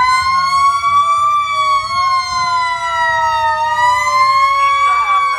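Fire truck siren wailing: two slow gliding tones at different pitches overlap, one rising and falling twice while the other slides steadily down, over a low rumble.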